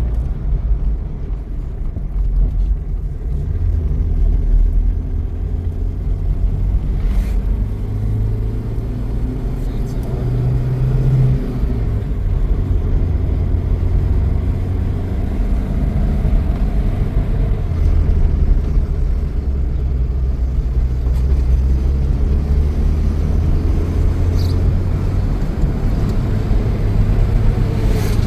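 A motor vehicle engine running with a steady low rumble, its pitch shifting now and then.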